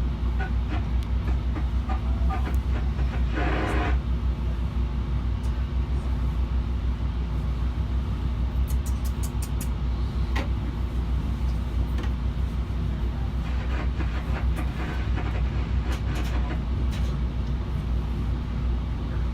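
Inside a moving Trinity Railway Express commuter rail coach: a steady low rumble and hum of the train running on the track, with scattered light clicks and a brief rush of noise about three and a half seconds in.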